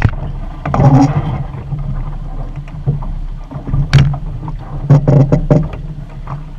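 A small sailboat under way in strong wind, with wind rumbling on the microphone and water rushing along the hull, broken by several sharp knocks and splashes.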